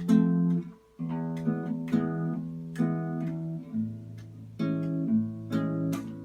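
Acoustic guitar strumming chords, with a brief stop just before one second in.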